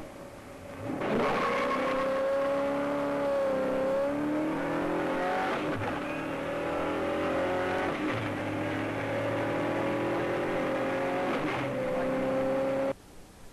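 A 1966 muscle car's big-block V8 accelerating hard on a drag strip through the gears of its four-speed manual, the engine note breaking at each gear change several times. The sound cuts off suddenly near the end.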